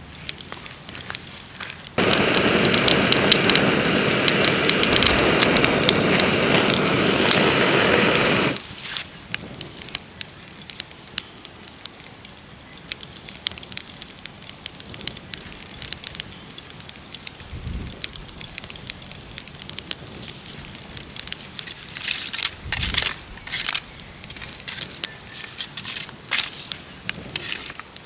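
Wood campfire crackling and popping, with scattered sharp snaps. About two seconds in, a loud steady rushing noise starts abruptly and cuts off just as suddenly about six seconds later.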